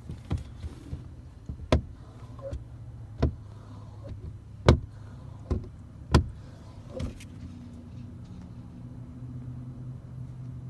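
Sharp knocks and taps on a car's windows and body, seven of them spread over about seven seconds, heard from inside the car over a steady low hum.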